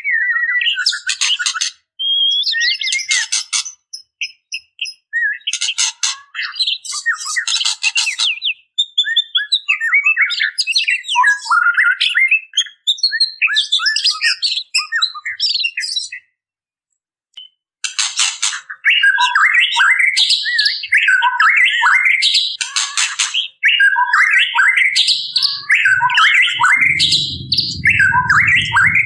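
Female white-rumped shama calling: harsh rattling ketrekan bursts mixed with quick chirping and squawking phrases, breaking off for about two seconds midway. A low muffled rumble sits under the calls near the end.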